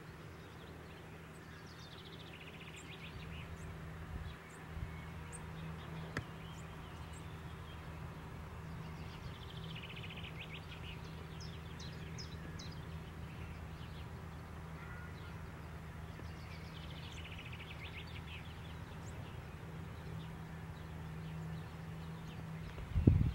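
Songbirds calling in three short bursts of rapid repeated notes, over a steady low hum, with a few faint high ticks between them. A loud thump near the end.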